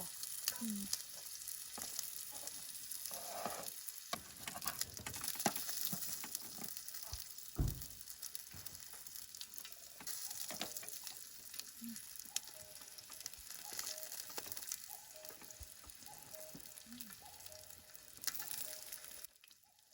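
Food sizzling as it fries in a hot pan, with the clicks and knocks of utensils turning it. The sizzle cuts off suddenly near the end.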